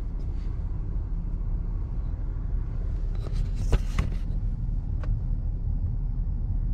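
Strong wind buffeting the microphone as a steady low rumble, with a few brief clicks and rustles about halfway through.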